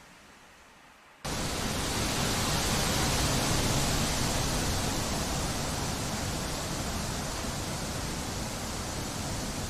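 Wind blowing through trees as a steady hiss. It starts abruptly about a second in after a faint, fading stretch, then eases slowly.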